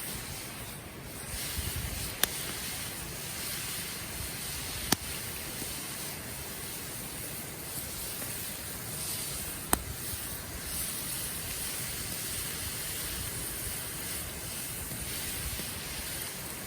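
Wood campfire burning: a steady hiss broken by three sharp crackles of popping wood, about two, five and ten seconds in.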